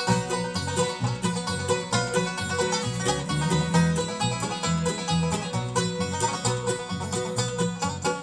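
Bluegrass band playing an instrumental break between sung verses: quick, steady picked notes over a moving bass line.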